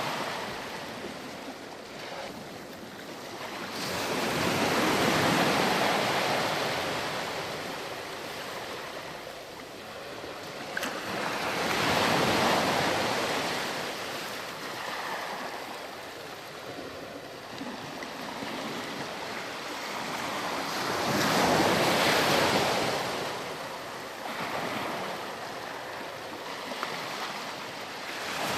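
Ocean waves breaking and washing up a beach, a surf that swells and falls back about every eight to nine seconds, three times.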